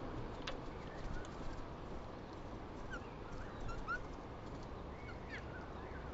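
Small birds chirping: scattered short, high chirps and quick upward-sliding calls, most of them in the second half, over a steady low background rumble.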